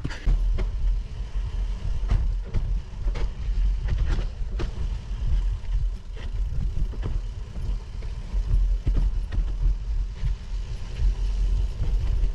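Gravel bike rolling along a gravel track: a steady low rumble with many scattered clicks and rattles from the tyres and bike.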